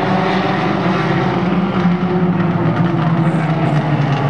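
Race car engines running at speed, a loud steady drone with a slight shift in pitch.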